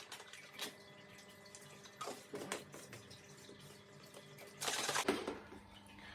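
Water in a plastic protein shaker bottle, with light clicks and knocks of handling and a short louder rush of water about five seconds in.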